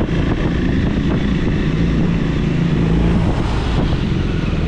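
Triumph Speed 400's single-cylinder engine running at a steady pace while the motorcycle is ridden, with wind buffeting the microphone.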